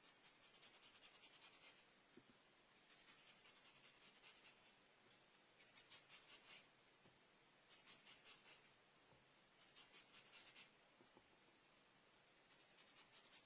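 Faint swishing of a blending brush working Distress Oxide ink onto card stock, in bursts of rapid short strokes about a second long, repeating roughly every two seconds.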